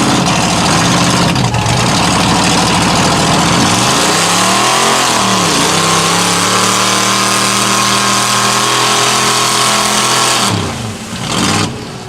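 Mud truck engine at full throttle under a loud steady rush of noise. The revs rise and dip about four to five seconds in, hold high and steady, then fall away about ten and a half seconds in as the throttle comes off.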